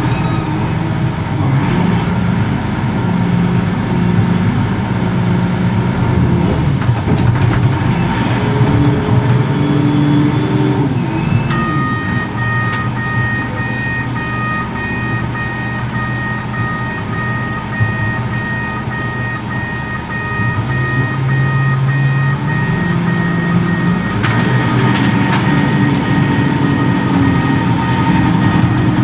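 Reach stacker's diesel engine running, its pitch rising and falling as it works. About eleven seconds in, a steady repeating high warning beep joins it and keeps on.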